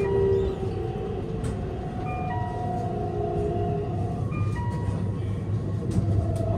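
Keihan electric train running along the track, heard from the driver's cab: a steady low rumble of the wheels on the rails, with thin whining tones that shift in pitch every couple of seconds.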